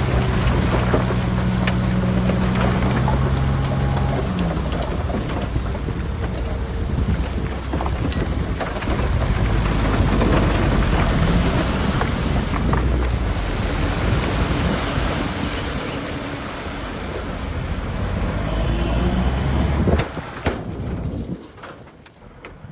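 Heavy earthmoving machinery working: a steady diesel engine hum for the first few seconds, then a loud continuous rumble with scattered clanks. It drops off sharply near the end.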